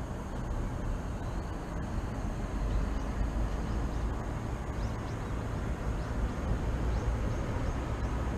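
Steady low rumble of distant city traffic, with a few faint, short, high bird chirps over it in the second half.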